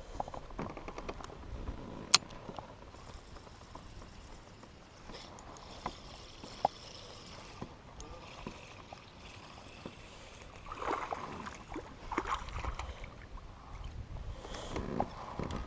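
Handling sounds aboard a fishing kayak: scattered sharp clicks and knocks, with a faint hiss for a few seconds and rustling bursts later on.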